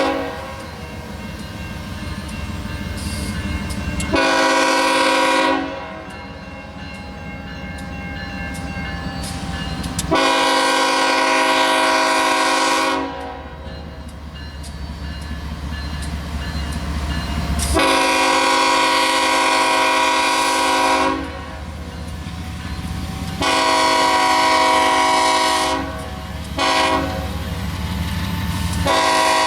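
Diesel freight locomotive's multi-chime air horn sounding a series of long blasts, ending in a long, long, short, long pattern: the standard grade-crossing warning. Between the blasts the locomotive's engine and the train's wheels rumble, swelling as it approaches.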